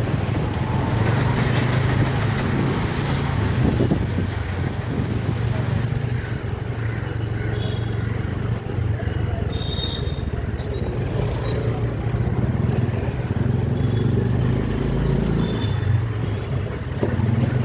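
City road traffic: vehicle engines running steadily with a constant low hum, and a few brief high-pitched sounds over it.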